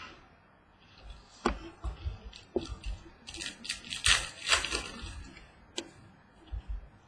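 Trading cards being handled between calls: a few sharp clicks and taps, with a rustling, crinkling stretch in the middle.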